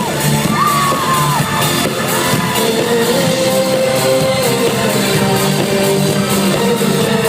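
Live pop song with a sung female lead vocal over an electronic backing track, and shouts from the audience.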